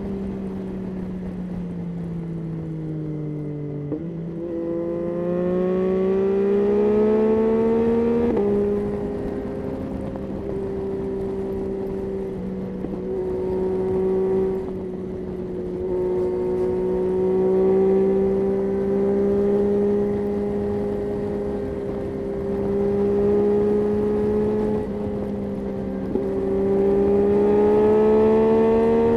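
Yamaha Tracer 9's 890 cc inline three-cylinder engine under way: the engine note falls as it slows, jumps up at about four seconds as a lower gear is taken, climbs under acceleration, drops a step at an upshift, then holds a steady cruising note before rising again near the end. A light rush of wind runs underneath.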